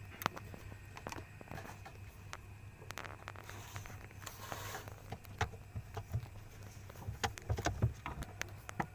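Scattered light taps and scratches, irregular and sharp, over a steady low hum.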